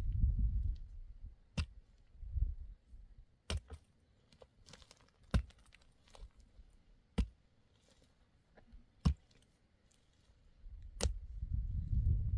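Sharp knocks, one about every two seconds, with a low rumble at the start and again near the end.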